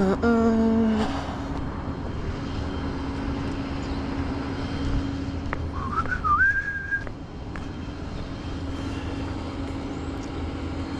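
A vehicle engine idling with a steady low hum, with a pitched tone in the first second and, about six seconds in, a short whistle that rises and then holds its pitch for about a second.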